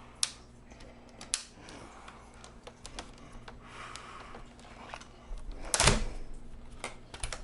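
Plastic snap clips on a Dell Inspiron 17 laptop's bottom cover clicking and cracking as the cover is pried off. There are sharp single clicks early on and a louder cracking snap near six seconds in.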